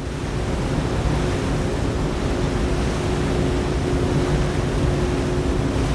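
Motorboat running steadily under way on the river, its engine a low steady hum under a rush of water and wind noise.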